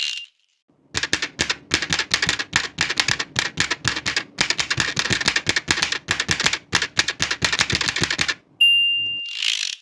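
Old manual typewriter typing in a fast, uneven run of key strikes for about seven seconds. Near the end the margin bell dings once and the carriage is swept back for a new line.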